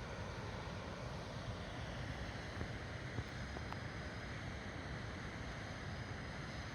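Wood campfire burning, a steady rushing noise with a few faint crackling pops near the middle.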